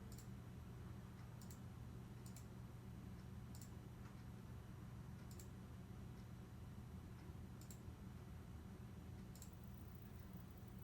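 Faint, sharp clicks, about seven spread unevenly over ten seconds, over a low steady hum.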